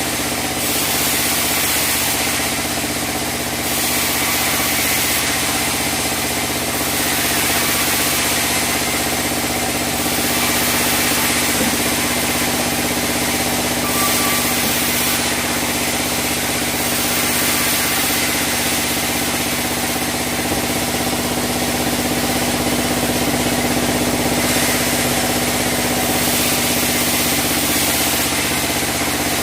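Sawmill band saw running steadily on albasia (sengon) wood: a constant machine hum under a high hiss that swells and eases every few seconds.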